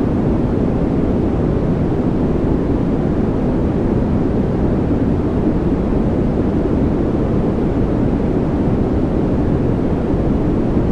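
Continuous sleep-aid white noise: a loud, unchanging rushing hiss, weighted toward low pitches so it sounds deep rather than bright.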